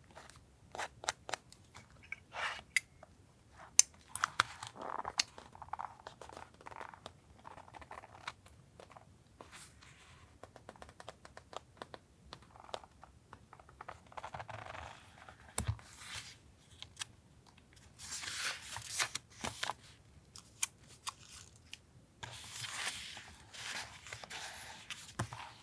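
Paper and stationery being handled while collaging a journal: scattered sharp taps and clicks, with a few stretches of paper rustling, the longest near the end.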